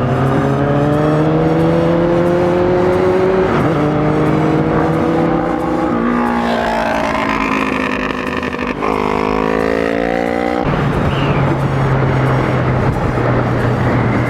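Sport motorcycle engine pulling hard, rising in pitch through two gears with a shift about three and a half seconds in. It then eases off with the pitch falling, blips back up near the nine-second mark, and settles into a steady cruise for the last few seconds, with air rushing past the rider's helmet camera.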